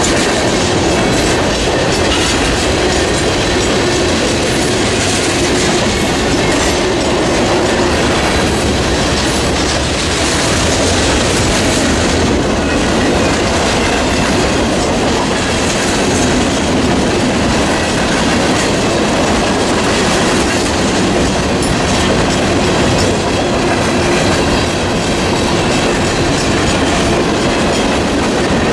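Railroad cars rolling past on the track, a loud, steady clatter of steel wheels on rail.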